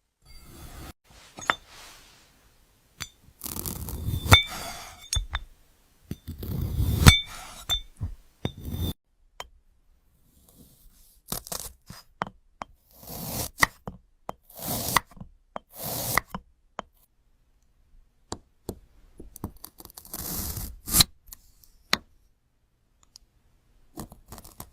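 Blade slicing through brittle glass-like fruit: several bursts of crisp crackling and scraping cuts, between them sharp clicks and clinks, some with a short glassy ring.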